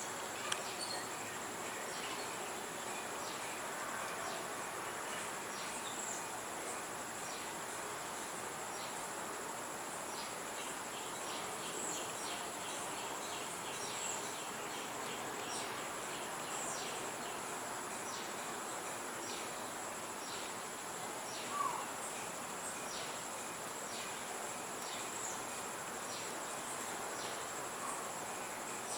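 Steady high-pitched insect trilling, like crickets, with many short, sharp, high chirps scattered through it, most likely from birds. One brief louder sound comes about three-quarters of the way through.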